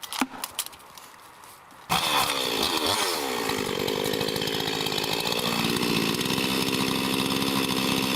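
Light scattered knocks, then about two seconds in a chainsaw comes in loud and runs steadily, its pitch dipping briefly before settling, as it cuts wood from the base of a large pine tree.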